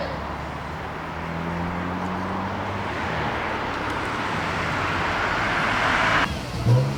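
Car engines running with road and tyre noise swelling steadily as a car approaches. The noise cuts off abruptly about six seconds in, and just before the end an engine revs up briefly.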